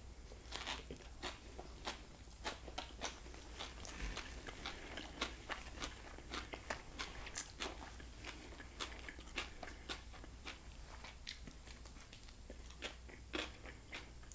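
Close-miked chewing of a blackened mahi mahi taco with shredded cabbage slaw: a bite, then soft irregular crunches and wet mouth clicks, several a second.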